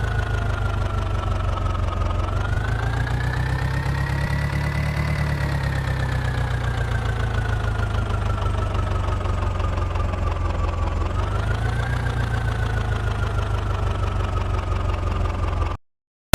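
Tractor engine running steadily. Its pitch rises and then falls off slowly, twice over, as if it is given some throttle and eased back.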